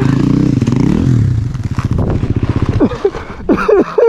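Motorcycle engine running and revving, its pitch rising and falling, then dying away about three seconds in; short voices follow near the end.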